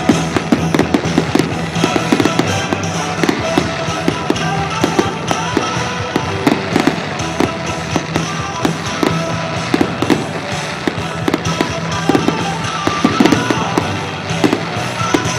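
Fireworks display: a dense, irregular run of sharp bangs and crackles from exploding shells, over music playing.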